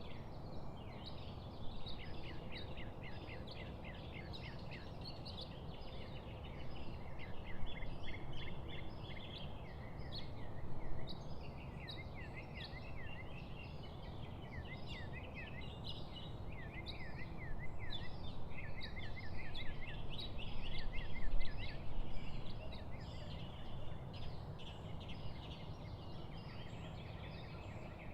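A chorus of songbirds chirping and singing together, with quick runs of repeated short notes overlapping throughout, over a steady rushing background.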